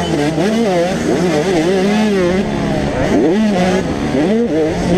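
Several 85cc two-stroke motocross bike engines revving at once, overlapping, their pitch rising and falling quickly as the riders work the throttle.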